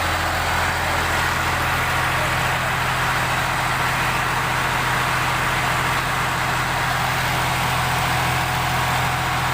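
Al Ghazi 65 HP tractor's diesel engine idling steadily.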